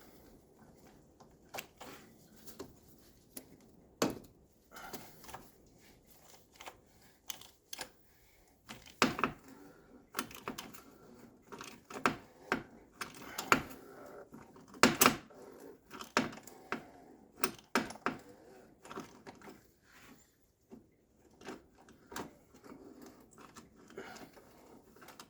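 Irregular sharp clicks and clinks of hand tools: a socket wrench with a worn swivel being fitted and worked, with a few louder knocks in the middle.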